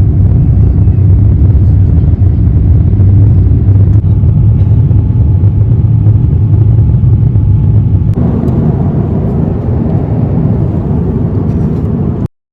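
Loud, steady low rumble of a moving vehicle. It shifts slightly in tone about eight seconds in and cuts off suddenly near the end.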